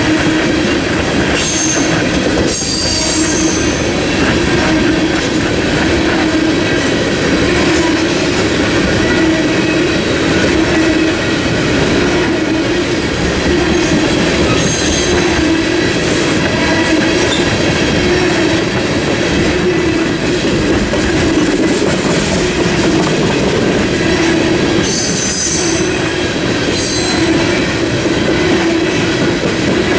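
Freight train tank cars rolling steadily past on the rails, a continuous rumble with clickety-clack of the wheels. Short high wheel squeals rise over it about two seconds in, around fifteen seconds, and again near twenty-five seconds.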